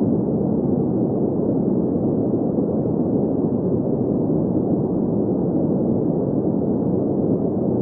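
Green noise: a steady, even hiss weighted to the middle-low range, with nothing above about 2 kHz and no change or events.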